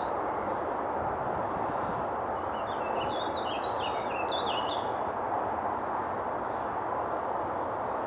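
A small songbird sings a quick, jumbled phrase of rapidly rising and falling high notes for a couple of seconds, after a brief chirp. A steady background noise runs underneath.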